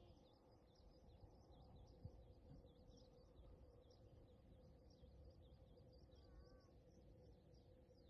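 Faint outdoor ambience of small birds chirping: a rapid, continuous run of high chirps, with a short wavering call about six seconds in. A faint steady hum runs underneath.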